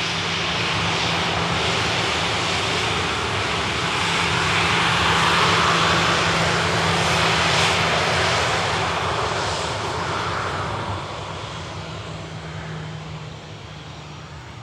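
Jet airliner engines, a roar that grows louder to a peak about halfway through and then fades away as the aircraft passes, over a steady low hum.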